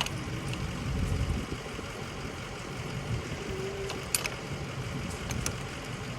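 A vehicle engine idling steadily with a low, even rumble, and a few light clicks over it.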